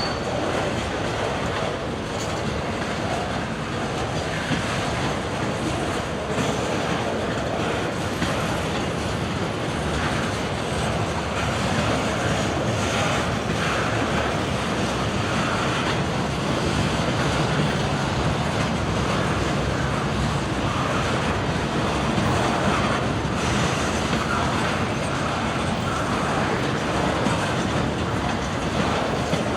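Freight train cars rolling past, the steel wheels clattering steadily over the rails.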